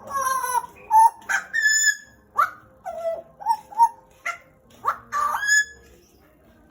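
Butcherbird singing: a run of loud, clear whistled notes, several sliding up or down in pitch, stopping near the end.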